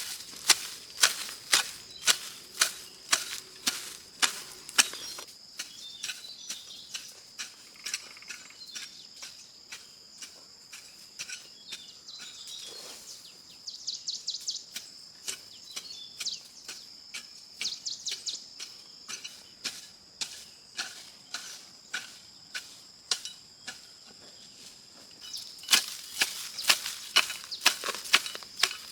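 Repeated sharp knocks, about two to three a second, like a tool striking wood. They are loud at first, fade to fainter strokes for most of the stretch, and turn loud again near the end. Insects drone steadily throughout.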